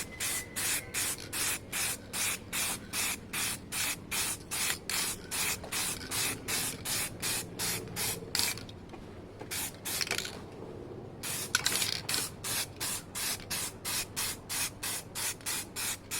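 Aerosol can of matte black spray paint hissing in short, quick bursts, about three a second, with a pause of a couple of seconds about two-thirds of the way through. It is laying a light tack coat.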